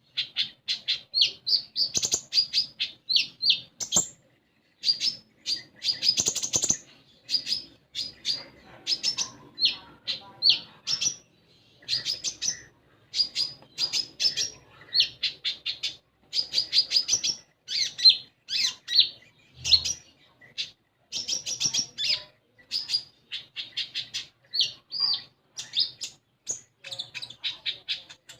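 Konin songbird singing continuously in quick runs of short, high, sharp chirping notes, with brief pauses between phrases.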